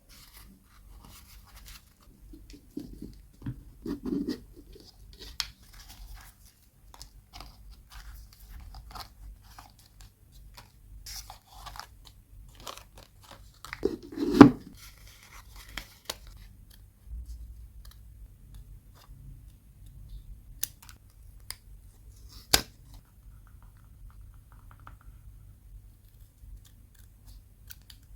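Close-miked paper and stationery handling for journal scrapbooking: soft rustling, scraping and small clicks. There are dull knocks about four seconds in and a louder one about halfway, and a sharp click about two-thirds of the way through.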